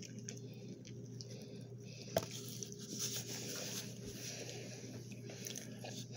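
Faint close-up chewing and mouth sounds of someone eating a soft flour-tortilla burrito, with one sharp click about two seconds in.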